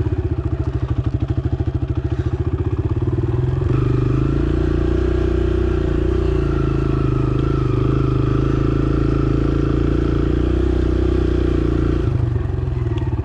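Dirt bike engine running at low revs with separate firing pulses, picking up to a steadier, higher pitch about four seconds in, then dropping back to low, pulsing revs near the end.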